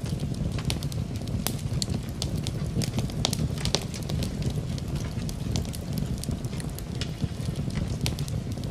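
Wood fire crackling in a fireplace, with frequent sharp irregular pops and snaps over a steady low rushing sound, blended with rain.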